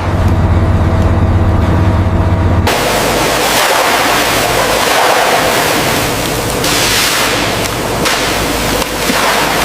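A boat's engine drones steadily. About two and a half seconds in it cuts abruptly to a loud, steady rushing of water.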